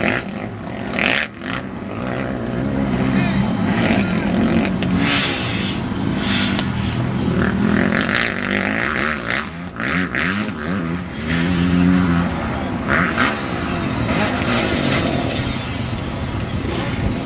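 Motocross dirt bike engines revving and running at the track, with people's voices mixed in.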